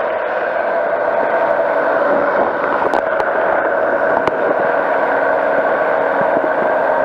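Powered parachute's engine and propeller running in flight with a steady drone, with a few faint clicks around the middle.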